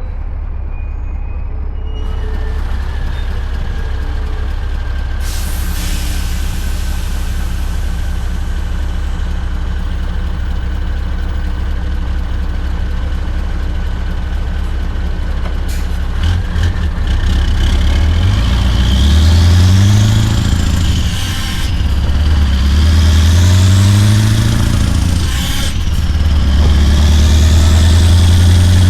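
Scania R580's V8 diesel with a straight-piped 8-inch exhaust, running with a steady low rumble. A burst of air hiss comes about five seconds in. From about 17 seconds the truck pulls away: the engine note rises, falls back and rises again about three times as it accelerates and shifts up through the gears.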